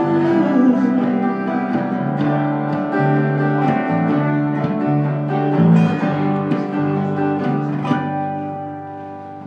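Instrumental break with a plucked guitar, held notes changing every second or so, fading out near the end.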